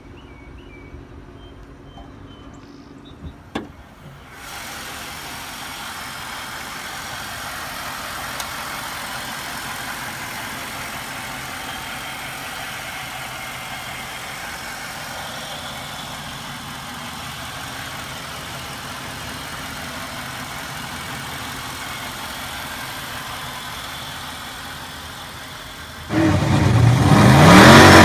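Car engine idling, then revved hard near the end, with a sudden jump in loudness and a rising pitch.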